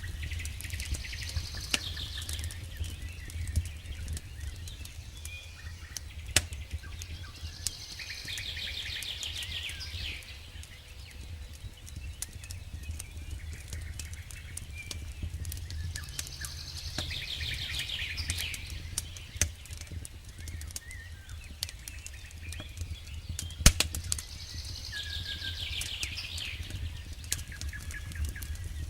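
Campfire crackling with scattered small pops and one sharp pop about two-thirds of the way through, over a steady low rumble. A songbird sings a fast, descending trilled phrase about two seconds long, four times, about every eight seconds.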